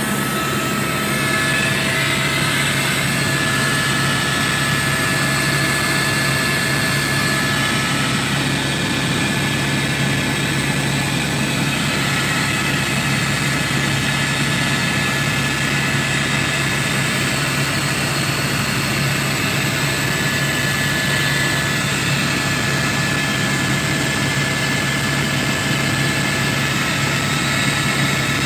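Helicopter engine and rotor noise heard from inside the cabin: a loud, steady drone with a constant hum.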